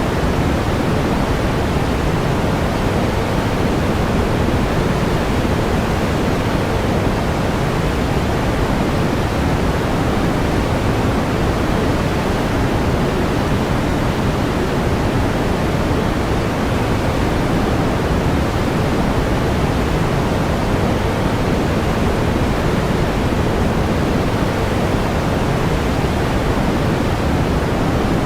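Steady pink noise: an even, unchanging hiss weighted toward the low end, with no events or changes.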